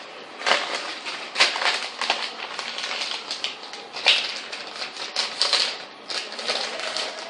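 A sheet of paper rustling and crackling in the hands as it is folded in half and creased, with a string of irregular crisp crinkles.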